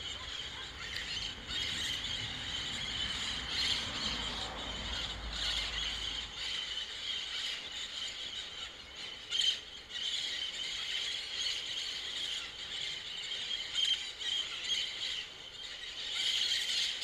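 A large flock of green parrots calling all at once: a dense, continuous chorus of many overlapping shrill screeches.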